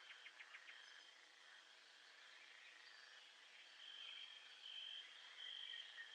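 Faint nature soundscape: a steady high insect trill that swells in pulses in the second half, with a quick run of short chirps at the start and a brief falling chirp near the end.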